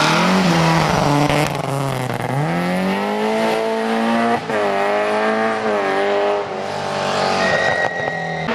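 Rally car engine at high revs, its pitch dropping and climbing again several times as the driver lifts, shifts gear and accelerates hard along a stage, with a brief cut in the note a little past halfway. A thin high squeal, likely from the tyres, is heard near the end.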